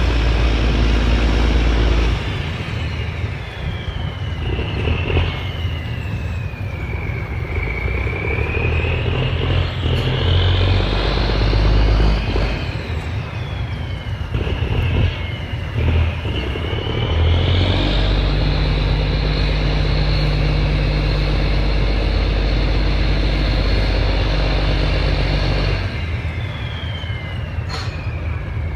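Cummins marine diesel engine running as the boat manoeuvres, its revs changing repeatedly. The revs drop about two seconds in and climb again, with a high whine rising and falling with them. The engine is held high for several seconds in the second half, then eases off near the end.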